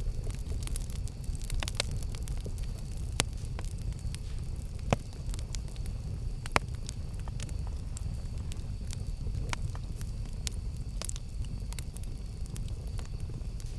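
Campfire burning with a low steady rumble and scattered sharp crackles and pops, the loudest about 3, 5 and 6.5 seconds in.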